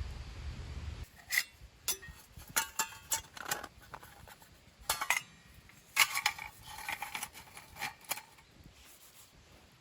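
Metal camping gear being handled: a series of sharp clinks and knocks, some with a short metallic ring, over about seven seconds before it goes quiet.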